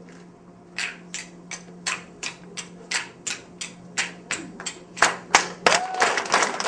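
Hand clapping in a steady rhythm, about three claps a second, starting about a second in. It grows louder and fuller near the end as more hands join, over a steady low hum.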